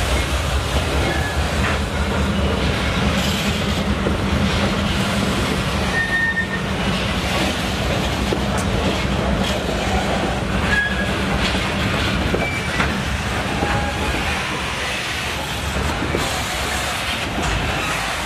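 Cement tank wagons of a freight train rolling past at close range: steel wheels running and clacking over the rails, with a few brief high wheel squeals. A steady low drone lies underneath for about the first half.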